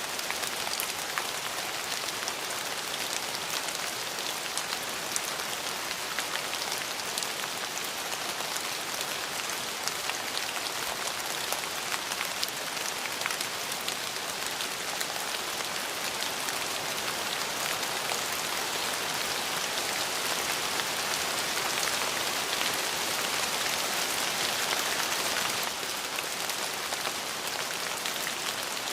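Steady rain falling, an even hiss with scattered individual drop ticks; it swells a little in the second half and eases back near the end.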